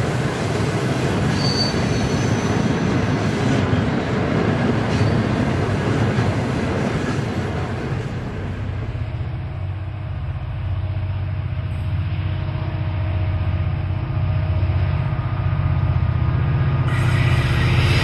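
Freight wagons rolling past on steel rails with a heavy, even wheel rumble. About eight seconds in this gives way to the low drone of approaching diesel locomotives, the Pacific National AN-class AN11 leading DL49. The drone grows louder as they near, with the rush of the train returning at the very end.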